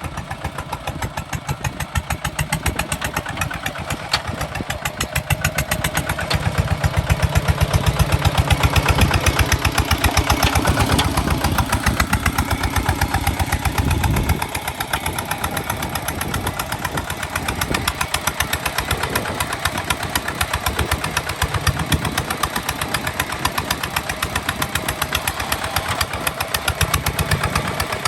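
Kubota ZT155 DI single-cylinder diesel engine running with a fast, even chug. It grows louder from about six seconds in, then drops back about halfway through.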